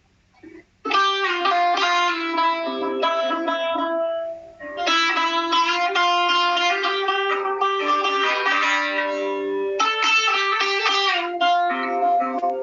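Solo buzuq, a long-necked Levantine lute with metal strings, played in its original two-string form and plucked in a melodic phrase. It starts about a second in, with two brief breaks in the phrasing, and fades near the end.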